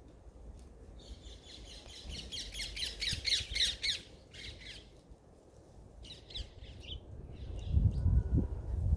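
A bird chattering: a fast run of repeated high call notes for about three seconds, then two shorter runs. A low rumble builds near the end.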